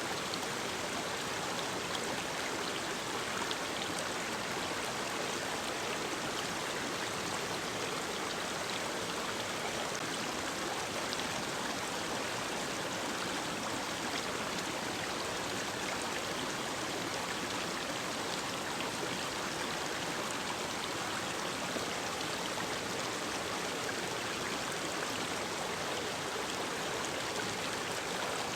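Mountain stream running steadily over rocks, an even rushing splash with fine droplet patter.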